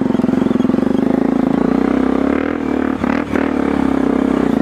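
Trail motorcycle's engine running at a fairly steady pitch while riding, with a couple of sharp knocks about three seconds in.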